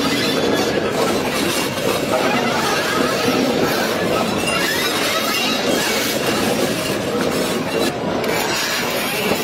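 Loaded sugarcane train wagons rolling past on the rails, a steady rattling, rubbing noise of wheels and wagons.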